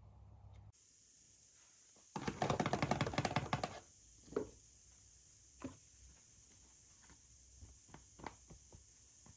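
Handling sounds from unboxing toys and packaging. A rapid rattle of clicks starts about two seconds in and lasts about a second and a half, followed by a few single light knocks and taps.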